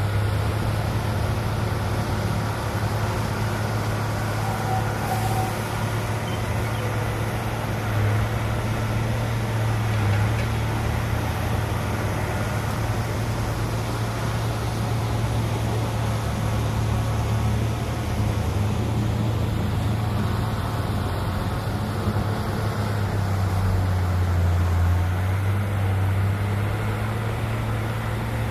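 Heavy diesel engine of earthmoving machinery running steadily at a constant low pitch, with a dense mechanical rumble over it.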